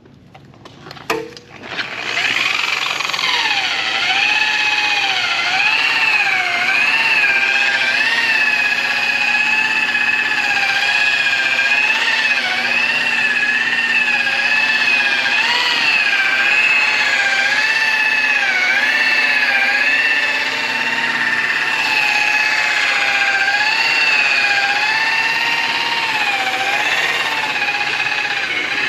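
Handheld power polisher starting up about two seconds in, then running with a motor whine that wavers up and down in pitch.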